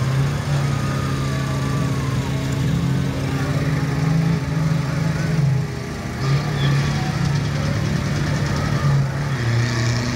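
Car engines running, their pitch stepping up and down as they rev and ease off.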